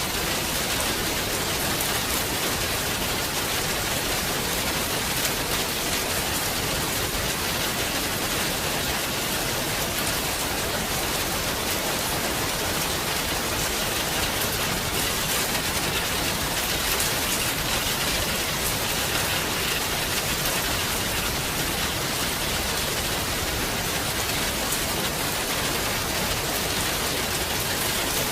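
Heavy rain falling as a steady, even downpour.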